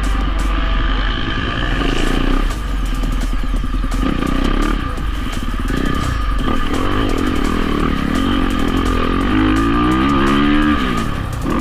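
Dirt bike engine running under load, its pitch rising and dropping as the throttle is worked, with a long climbing rev near the end.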